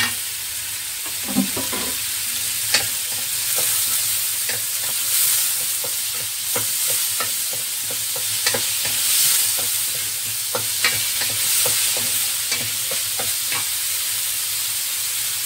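Onion, garlic, ginger and diced tomato sizzling in a wok with a steady hiss, while a wooden spatula stirs them, scraping and tapping against the pan many times. A sharp knock right at the start as the tomato goes in.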